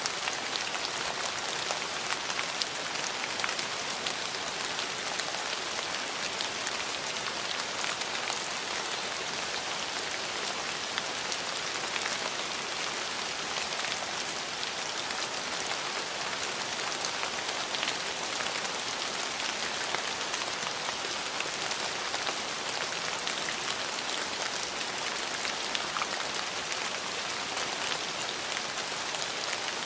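Steady rain falling on hard surfaces: a dense, even hiss made of many individual drop patters, with no thunder.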